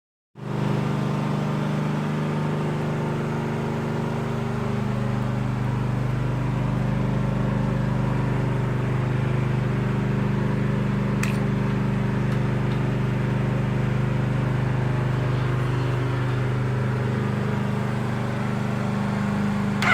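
Aprilia Tuono V4 motorcycle's V4 engine idling steadily through an aftermarket Mivv exhaust.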